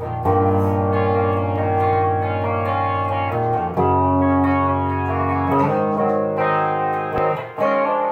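Wolf KSA-50 electric guitar on its bridge pickup, played clean through a Boss Katana 50 amp with chorus and delay: ringing chords, each held for about two seconds before the next.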